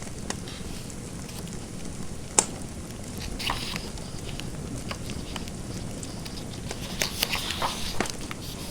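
Fireplace fire crackling over a steady low rumble, with scattered sharp pops: one loud pop about two seconds in and a quick run of pops near the end.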